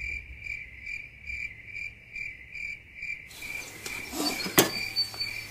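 An insect chirping steadily, short even chirps at one pitch, about two to three a second. A single sharp click about four and a half seconds in.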